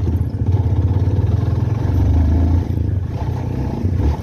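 Motorcycle engine running while riding, a steady low rumble with road and wind noise; it eases slightly about two and a half seconds in.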